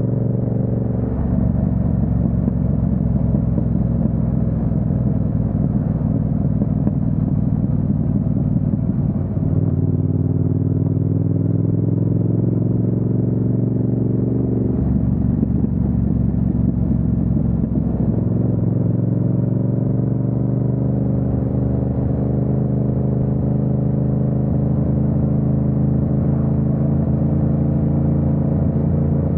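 Yamaha MT-07's parallel-twin engine running under way. Its pitch climbs steadily for about five seconds near the middle as it accelerates, drops back, then holds fairly even.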